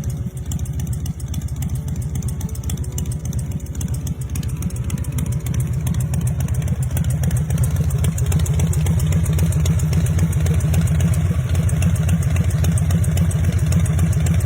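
2002 Harley-Davidson Softail Deuce's V-twin running through West Coast Choppers exhaust pipes, a steady, fast, low pulsing that grows louder about six seconds in.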